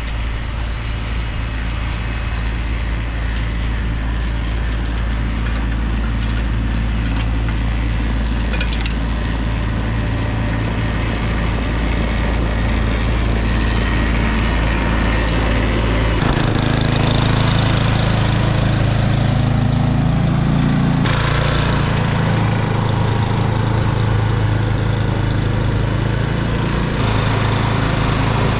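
Engine of a snow-clearing machine running steadily, with its tone changing abruptly about halfway through and again twice later.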